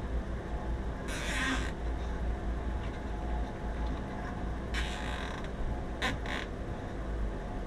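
A steady low machine hum, with short bursts of hissing or rustling noise about a second in and again around five and six seconds in.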